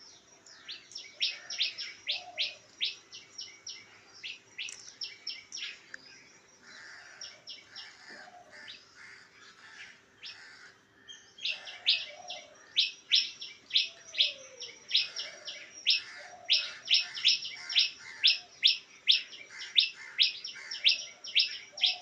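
Small birds chirping in quick runs of short, high notes, several a second. The chirping thins out for a few seconds around the middle, then resumes louder, over a faint steady hum.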